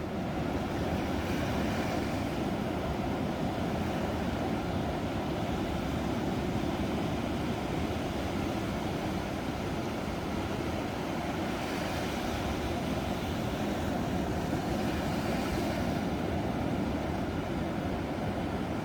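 Ocean waves breaking on a shore: a steady, deep rush of surf with a few brief swells of brighter hiss as waves break.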